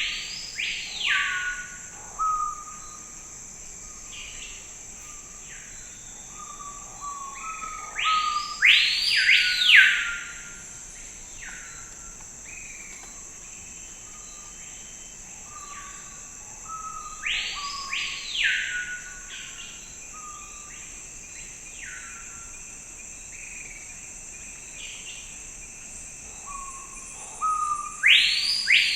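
Forest birds calling: loud phrases of quickly rising and falling notes come back about every nine seconds, with shorter lower chirps between them, over a steady high insect drone.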